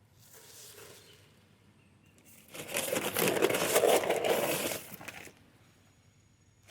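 Bag of concrete mix being handled: a loud crinkling, crunching rustle lasting about two and a half seconds, after a fainter rustle near the start.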